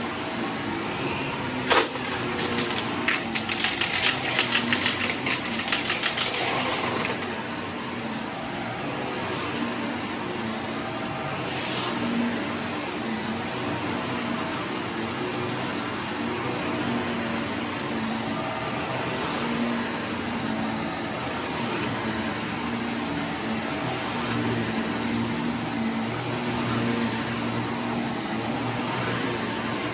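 Vacuum cleaner motor running steadily, with a sharp click about two seconds in and then several seconds of rattling and crackling as debris is sucked up.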